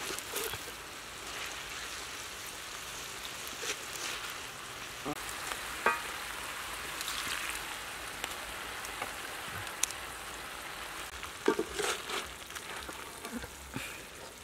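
Fried fish, salted soybeans and ginger sizzling in oil in a wok, a steady hiss, with a metal spatula scraping and knocking against the pan now and then.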